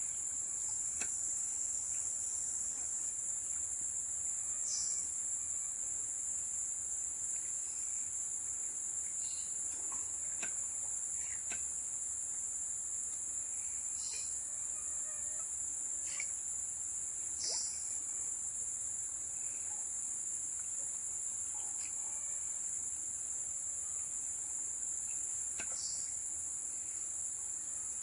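Steady insect chorus: a continuous high-pitched buzz in two even tones that holds without a break, with scattered faint short clicks and chirps over it.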